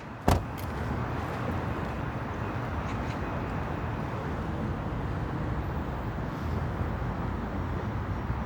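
Steady low outdoor background rumble, with one sharp click a third of a second in.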